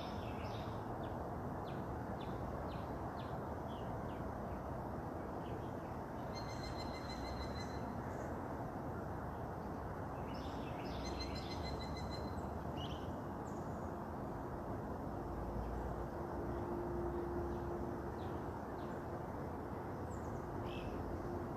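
Several birds chirping and calling over a steady outdoor background rumble, with two bursts of a buzzy, rapidly repeated call about six and eleven seconds in. A faint low steady hum comes in during the second half.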